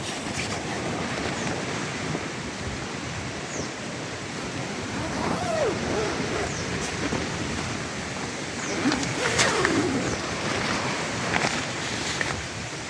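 Strong wind blowing steadily at a campsite, a dense rushing like surf, with a few short sharp flaps or clicks in the second half.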